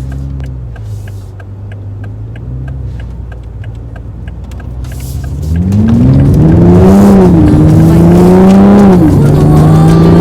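2021 Toyota Supra GR's 3.0-litre turbocharged inline-six running at a low steady speed with a light regular ticking, then the engine revs up hard as the car accelerates. The pitch climbs and drops back twice, once about 7 seconds in and again about 9 seconds in, as the gearbox shifts up.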